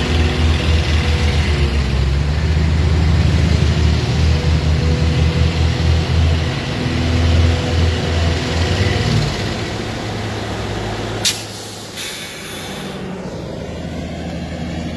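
Heavy diesel engine of a truck or excavator running under load with a pulsing low drone, easing off after about nine seconds. About eleven seconds in comes a sharp burst, followed by a brief high hiss.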